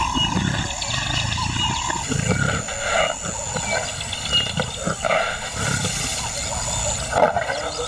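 Lion roaring: a series of deep grunting calls, roughly one a second.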